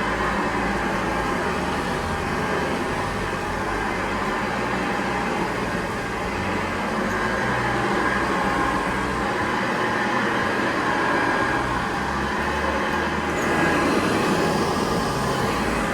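Vintage 1970s Hoover Model 728 upright vacuum cleaner running steadily while vacuuming, a deep, low rumble with a steady hum on top. It grows a little louder and brighter near the end.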